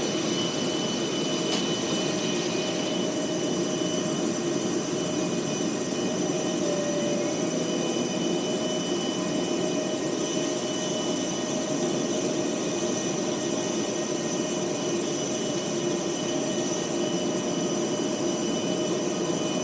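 Steady jet-turbine drone of an airliner at the gate: an even rushing roar with high, unchanging whines over it.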